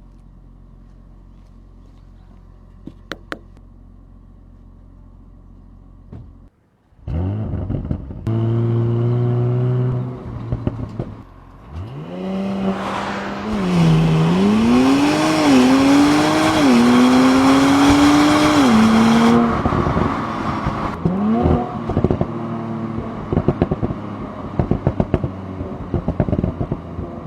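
Audi SQ5 Sportback's turbocharged V6 fires up and revs, then launches under launch control. The pitch climbs and drops back at each of three or four upshifts. Near the end it settles to idle with many sharp exhaust crackles and pops.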